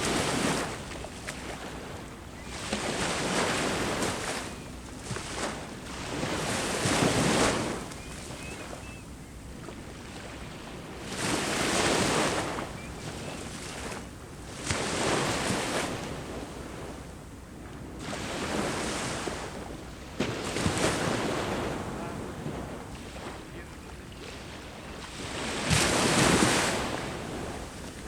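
Sea waves breaking and washing up a shore, surging every few seconds, the loudest surge near the end.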